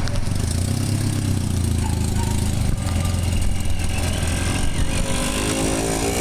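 A motor engine running with a steady low rumble. Near the end a second engine note climbs in pitch.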